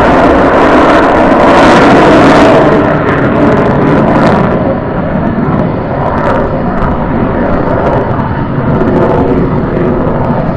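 Jet roar of an F-35A Lightning II's single turbofan engine passing overhead in formation with a P-51 Mustang. It is loud for the first three seconds, then the high hiss drops away at about four and a half seconds and it fades to a lower, steadier rumble as the formation moves off.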